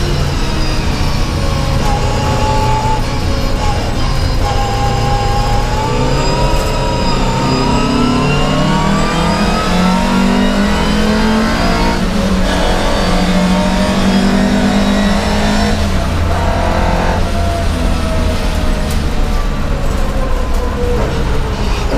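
Racing Volvo 544's four-cylinder engine heard from inside the cabin while it is driven hard, the revs climbing and dropping, with short breaks in the note about 12 and 16 seconds in.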